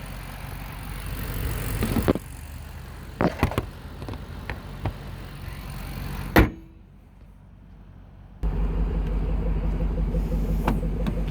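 A car's engine running steadily at idle, with a few knocks of handling and one loud slam a little past six seconds in. The slam is likely a hood or door being shut. A louder steady idle comes in abruptly near the end.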